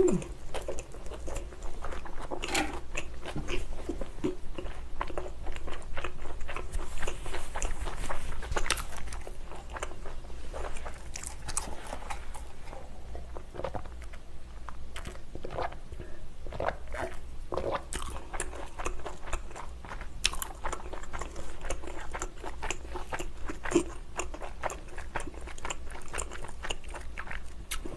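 Close-miked chewing and biting of thin-crust pizza, with crisp crunches of the crust and many small, sharp mouth clicks.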